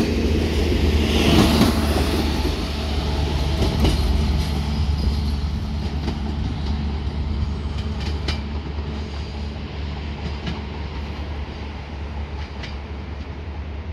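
Passenger train rolling along the track, wheels clicking over rail joints every couple of seconds over a steady low hum, the whole sound fading as the train moves away.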